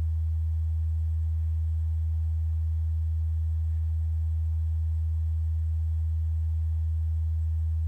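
Steady low-pitched hum, a single constant tone that does not change, with no other sound over it.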